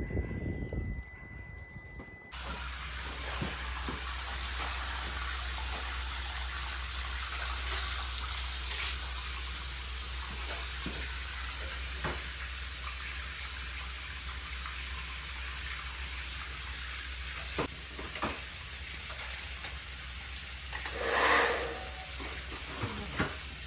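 Water running steadily with an even rushing hiss that starts about two seconds in, a few light knocks, and one louder surge near the end.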